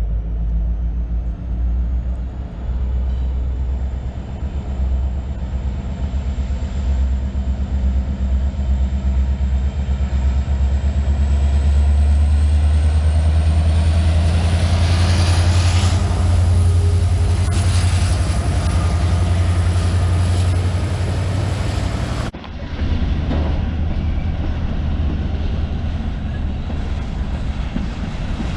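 Diesel locomotive running close by. Its engine makes a loud low drone that builds to a peak about halfway through, over a faint high whine that slowly rises in pitch. About 22 seconds in, the sound breaks off suddenly and picks up again as rumbling train noise.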